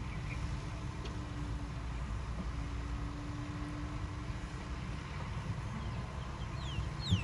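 Diesel engine of heavy earthmoving machinery running steadily: a low rumble with a faint steady hum over it for the first few seconds. A short high falling whistle sounds near the end.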